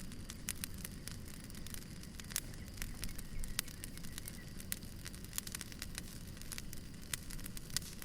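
Wood fire burning: a steady low rumble of flames with irregular sharp crackles and pops from the burning logs, a few louder pops about two and a half and three and a half seconds in.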